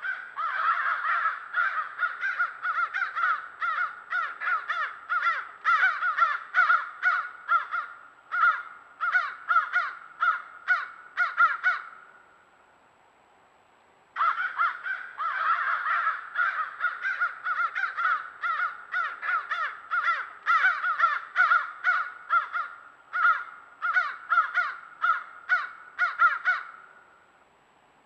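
Crows cawing in rapid, overlapping series of harsh calls, in two bouts of about twelve seconds each with a short pause between them.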